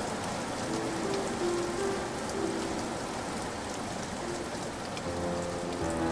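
Steady rain with scattered drops pattering, with soft music of quiet held notes underneath that comes up again near the end.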